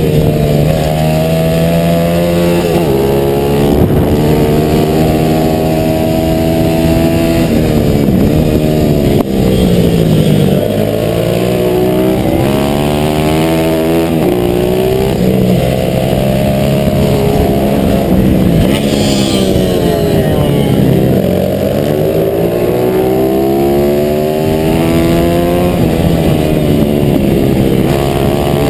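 Stock 140cc pit bike's single-cylinder four-stroke engine, heard on board, racing hard: it revs up through the gears and drops back off the throttle into corners, again and again every few seconds.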